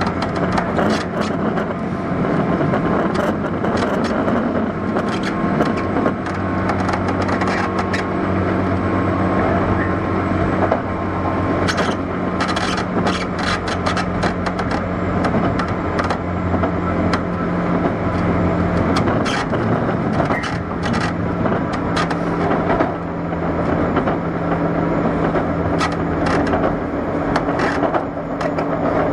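Running noise inside a motor car of a JR 201 series electric train (thyristor chopper control, DC traction motors) under way: a steady hum from motors and gears over the rumble of wheels on rail, with many sharp clicks and knocks from the track, more frequent after the first ten seconds or so.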